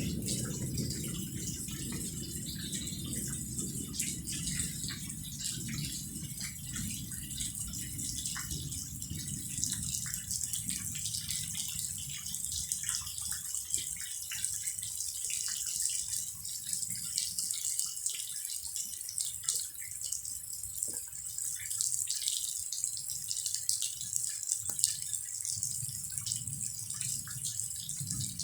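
Rain falling, with a steady hiss and many separate drips and drop splashes. A low rumble fades away over the first several seconds.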